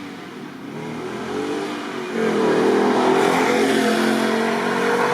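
Ford Mustang 5.0 V8 accelerating hard: the engine note climbs in pitch and gets much louder about two seconds in, then holds at full volume.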